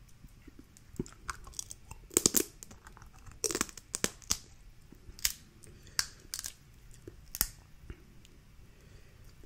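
Shellfish shells being cracked and torn open by hand: a run of sharp, irregular cracks and snaps, the loudest cluster a little over two seconds in.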